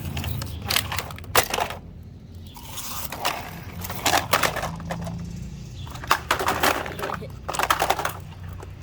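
Irregular clusters of sharp clicks and scrapes, as of hard plastic objects being handled and set down, over a steady low hum.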